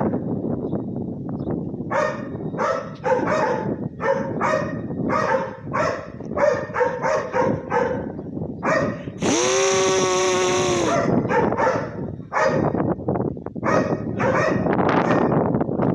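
A dog barking over and over, about two to three barks a second, with one drawn-out whining call lasting about two seconds near the middle. Under the barking runs the steady rumble of a Boeing 787 passing overhead.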